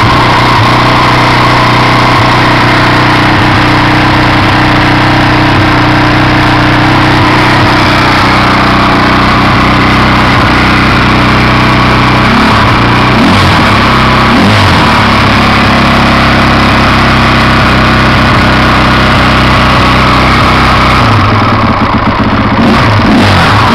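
Rebuilt KTM motorcycle engine idling steadily and loud, with short throttle blips about halfway through and again near the end.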